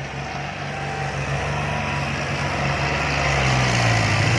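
A vehicle engine running and getting steadily louder, its pitch dipping briefly near the end and then picking up again.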